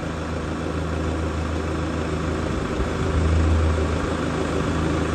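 Kubota tractor's diesel engine idling with a steady low drone while the front loader is lowered on the hydraulics; the drone gets a little louder about three seconds in.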